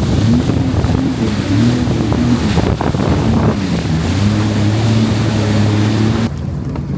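Jet ski engine running over rushing wind and water noise, its pitch wavering up and down and then holding steady. About six seconds in the engine note and the hiss cut off suddenly, leaving a quieter sound.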